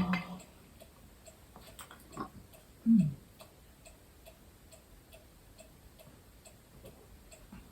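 Faint, steady ticking of about two ticks a second, with a brief low voice hum about three seconds in.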